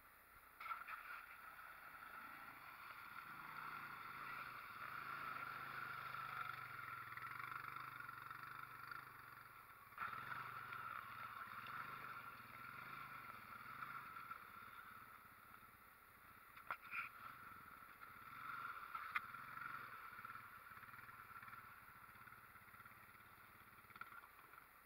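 Honda Rancher ATV's single-cylinder engine running faintly as the quad drives through floodwater on a trail. The engine rises and falls as the rider works the throttle, with a few sharp knocks.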